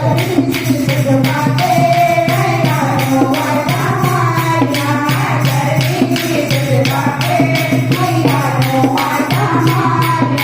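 Hindi devotional bhajan sung in kirtan style: voices singing a melody over a steady, quick percussion beat and a sustained low drone.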